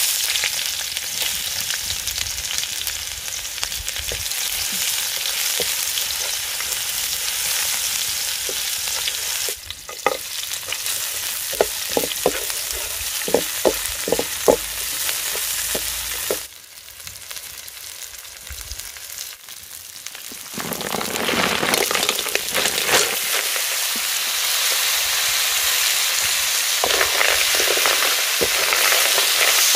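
Hot oil sizzling in a wok as sliced shallots and lemongrass fry, stirred with a bamboo stick, with a run of light knocks partway through. After a quieter few seconds the sizzle grows louder again as snails in their shells fry and are stirred.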